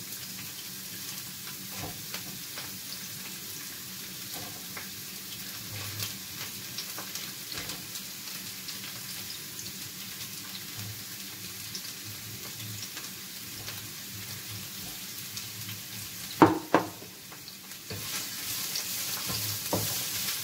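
Sliced carrots sizzling in hot oil in a frying pan, stir-fried in oil alone with no water, with a steady sizzle and scattered small crackles. About sixteen seconds in come two sharp knocks, and then the sizzle grows louder as a wooden spatula stirs the pan.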